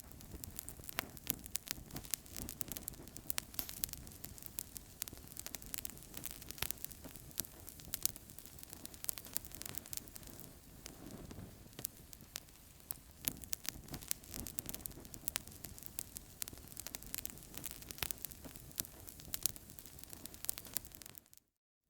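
Wood fire crackling in a fireplace: frequent, irregular sharp pops and snaps over a steady hiss of burning. It cuts out to silence briefly near the end.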